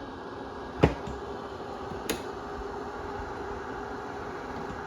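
Steady hum of a refrigerator running, with two sharp clicks, a loud one just under a second in and a lighter one about two seconds later, while the ice dispenser is tried. The dispenser's auger motor does not turn, the fault under test.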